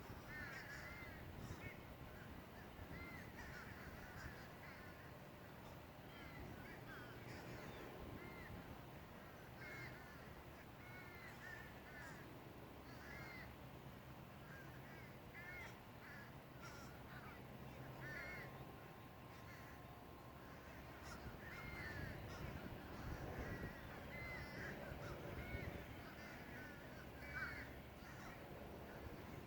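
Crows cawing over and over, many short calls following one another, faint.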